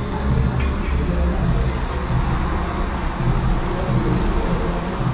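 Tattoo machine buzzing steadily with a low hum, the needle running while tattooing goes on.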